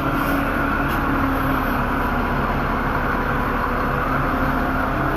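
A crane's engine running steadily with a constant hum as it hoists a rooftop air-conditioning condenser.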